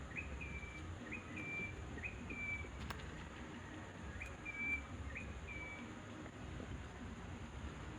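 A bird calling repeatedly: each call is a short low note that jumps up to a higher held note, given about once a second, with a break in the middle. A single sharp click sounds about three seconds in.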